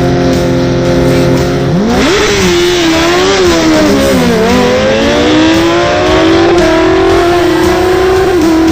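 Racing motorcycle engine at hard throttle: its pitch shoots up about two seconds in, wavers and dips, then climbs steadily and holds high. Rock music plays underneath.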